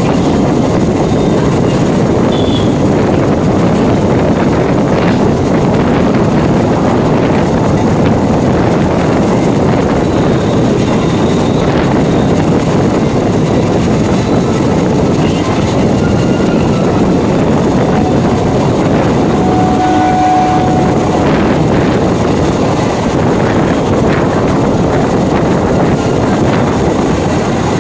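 Electric multiple unit (EMU) suburban train running at speed, heard from on board: a loud, steady noise of the wheels on the track and the coach in motion. There is a short tone about two thirds of the way through.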